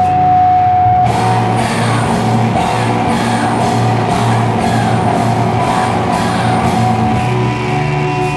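Live slowcore/noise rock band playing loud, distorted electric guitars over bass. A single held tone gives way about a second in to a dense, noisy wall of guitar over a pulsing bass line.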